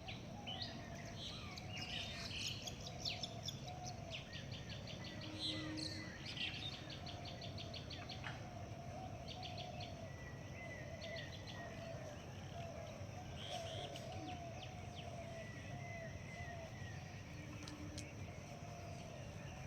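Several birds calling in a rural morning chorus: quick runs of high repeated chirps, thickest in the first half, over a wavering lower call that keeps coming back. A steady low background noise runs underneath.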